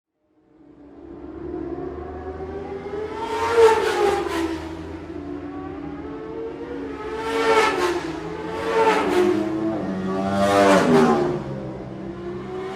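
Superbike engine revving, its pitch climbing and dropping back about five times, the loudest rev a few seconds in.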